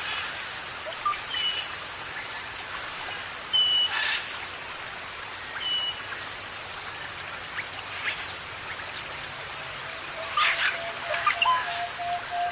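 Birds calling over a steady rain-like hiss: short clear whistles and chirps, a busier burst of calls about two-thirds of the way in, and a long held note near the end.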